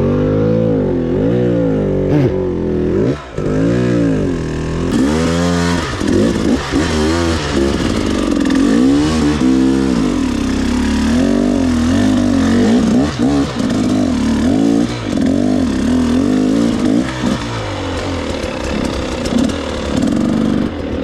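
Dirt bike engine revving up and down again and again as the throttle is opened and closed while riding, with a steady rushing noise over it.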